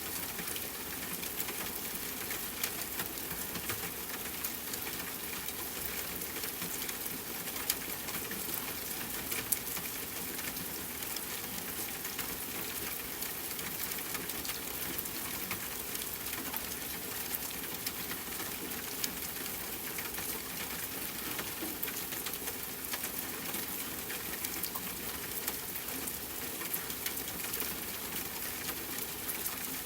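Steady hiss of falling rain mixed with a wood fire crackling, with scattered sharp pops now and then.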